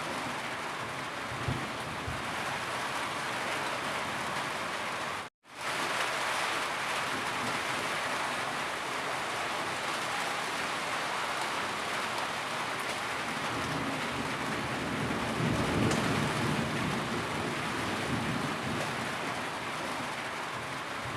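Steady heavy rain falling, an even hiss of rain on surfaces. It cuts out to silence for a moment about five seconds in, then resumes.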